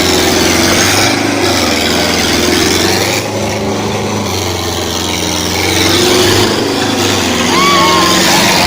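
Sonalika tractor's diesel engine running loud and steady, with a voice shouting over it near the end.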